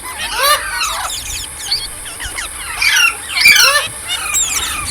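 Green parrots, rose-ringed (Indian ringneck) parakeets, chirping and squawking in quick, high-pitched, overlapping calls.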